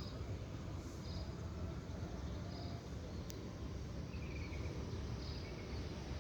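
Outdoor ambience: a steady low rumble with short high chirps repeating about once a second, and a faint click about three seconds in.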